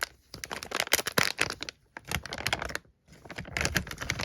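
Plastic bag crinkling and rustling in three bursts of rapid crackles as a small model glow engine is unwrapped from it, with brief pauses about two and three seconds in.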